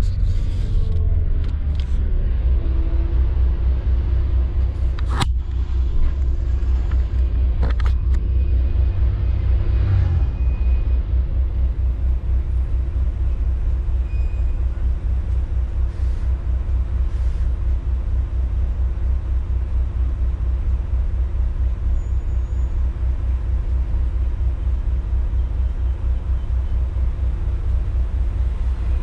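Coach bus engine and drive running at a steady low rumble while the bus is driven, with a faint rapid pulsing in the rumble. A sharp click about five seconds in and a lighter one a couple of seconds later.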